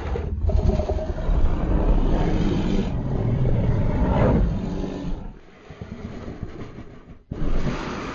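A large animal roaring, deep and rough. It breaks off abruptly a little over seven seconds in and starts again.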